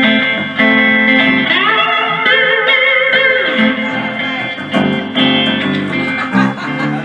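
A live band playing a guitar-led song intro, with sliding, wavering guitar notes.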